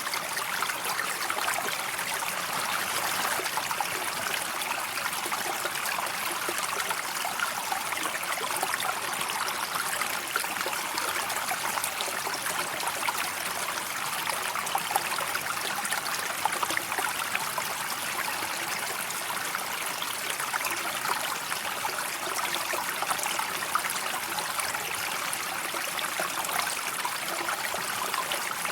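River water flowing steadily, a continuous rippling, babbling wash with no pauses or changes.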